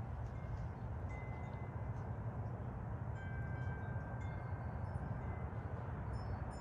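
Wind chimes ringing lightly: several clear tones, each held up to about a second, over a steady low rumble.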